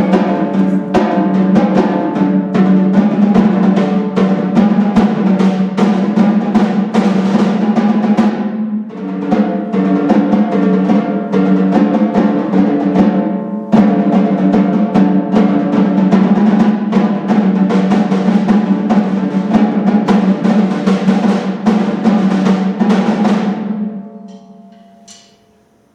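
A percussion duet on drums, played as dense, rapid strokes and rolls with a steady pitched ring underneath. It breaks off briefly twice and ends about 24 seconds in, the last notes ringing away.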